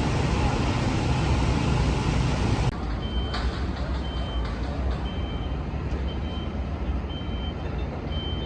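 Liebherr T 264 mining dump truck running with a loud, dense rumble. After a cut about a third of the way in, its warning beeper gives short high beeps about once a second over a lower rumble.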